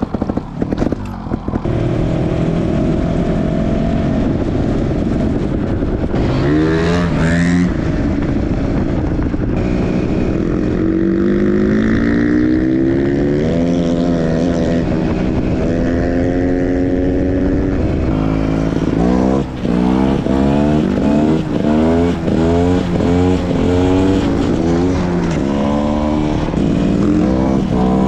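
GasGas dirt bike's single-cylinder engine being ridden, its pitch climbing and falling with the throttle and gear changes. There is a quick run up in revs about six seconds in, steadier running in the middle, and many short rev rises and drops in the last third.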